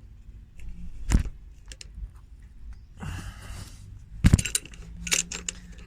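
Metal clinks and knocks as a bottle jack is worked under a car while trying to raise it one more step, with a short rushing noise about three seconds in.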